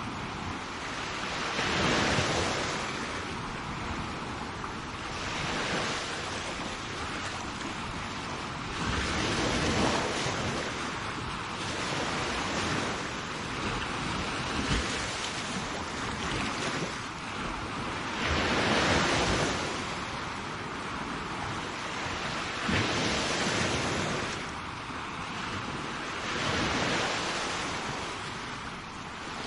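Sea waves breaking and washing up a shore, a steady rush of surf that swells louder every few seconds as each wave comes in.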